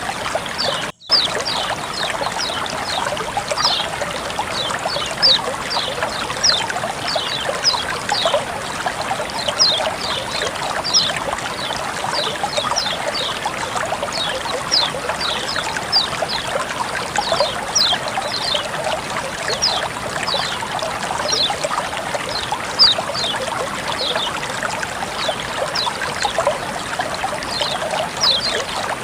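Flowing water trickling and splashing steadily, with many quick high plinks of drops throughout. The sound cuts out for an instant about a second in.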